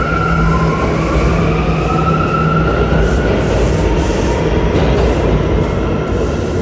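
R179 subway train pulling out of the station: its motors whine, rising slowly in pitch as it gathers speed, over a steady rumble of the wheels on the rails.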